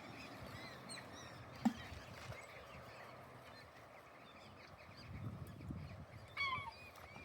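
Several wild birds calling in short, repeated chirps, with one louder, falling call about six and a half seconds in. A single sharp tap sounds about a second and a half in.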